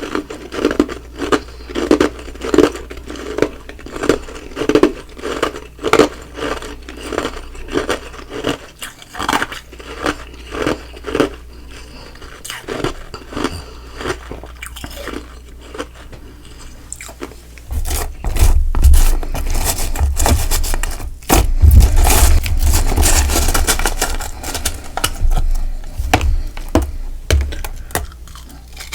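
Close-miked chewing of ice and frost: even, rhythmic crunches at about two a second, then softer chewing, then in the last third louder, denser crunching with deep thumps.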